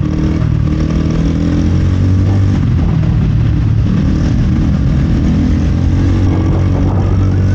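A ridden two-wheeler's motor running steadily at speed, with road and wind noise.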